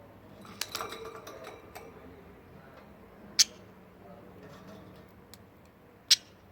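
A budgerigar preening: a cluster of small clicks and rustles about a second in, then two short, sharp, high-pitched ticks about three seconds apart.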